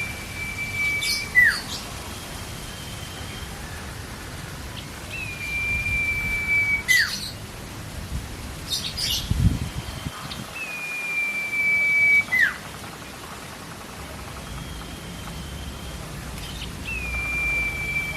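Common iora (cipoh) calling: a long, steady, high whistle held for about a second and a half that drops sharply at its end, repeated about every five to six seconds. Fainter, higher whistles and a few short sharp chips come between the calls, over a steady hiss.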